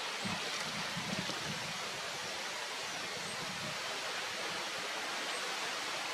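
Steady, even rushing hiss like flowing water, with a few soft low thumps in the first second and a half and a few faint, very high peeps.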